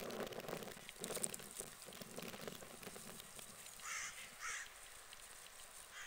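Two short, harsh bird calls, about half a second apart, a little past halfway through, over a low background rush that fades away during the first half.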